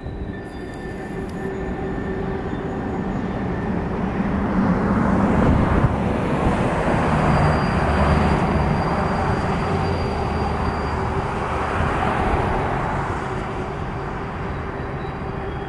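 Long freight train of tank cars rolling across a steel truss bridge: a steady, dense rumble of wheels on rail that swells towards the middle and eases off. Thin, faint high squeals from the wheels come and go.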